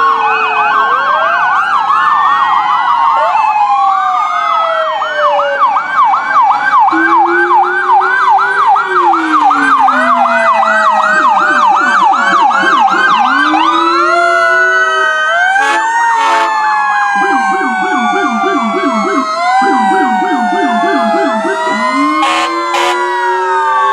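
Several fire apparatus sirens sounding at once: a fast electronic yelp, slower rising and falling wails, and a low fast warble in the second half. Two short sharp blasts cut through, one about two-thirds of the way in and one near the end.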